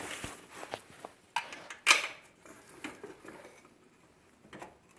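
Metal clinks and taps of bolts and hand tools as an engine is bolted onto a mini bike frame, with two sharper strikes about one and a half and two seconds in, then fainter ticks.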